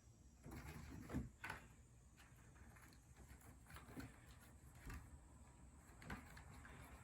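Faint, scattered knocks and scuffs of a playing kitten moving about, the loudest a little over a second in.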